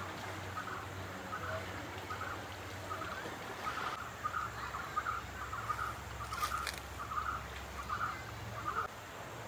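A bird calling over and over, one short note about twice a second, stopping shortly before the end, over a low steady hum.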